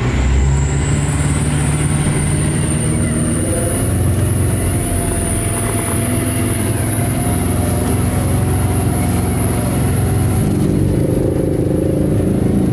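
Off-road 4x4's engine running steadily, heard from inside the cabin, with a thin high whine over the drone.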